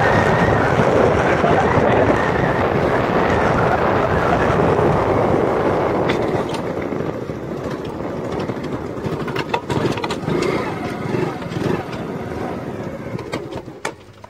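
A moving vehicle, with wind buffeting the microphone as a loud, even rush. It eases off about six seconds in, leaving a quieter rumble with a few sharp knocks near the end.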